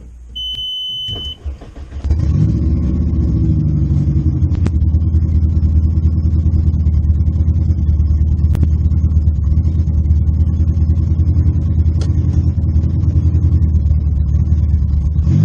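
A short electronic beep, then the VW Golf race car's big-cam 2.0 AEG four-cylinder engine catches about two seconds in, flares briefly and settles into a loud, steady idle.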